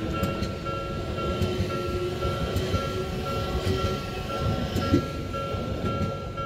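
Odakyu Romancecar VSE (50000 series) electric express train passing close by: a steady low rumble with wheels clacking over the rail joints. The end of the train goes by about five seconds in.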